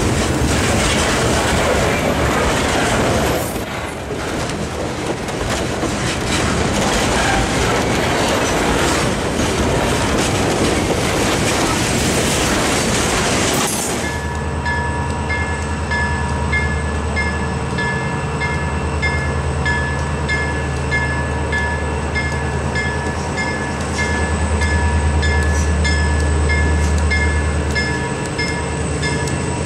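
Freight cars loaded with lumber rolling past, wheels clacking over the rail joints. About fourteen seconds in this gives way abruptly to a grade-crossing bell ringing at an even pace over a deep, steady rumble.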